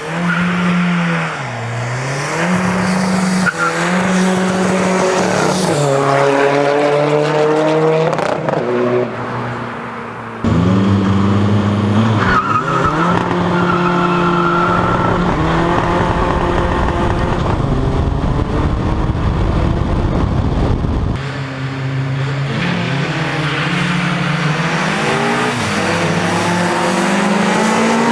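Modified diesel Seat Ibiza Cupra engine pulling hard through the gears, its pitch climbing and then dropping at each shift. About ten seconds in it turns suddenly louder, with a heavy rushing noise under the engine for around ten seconds.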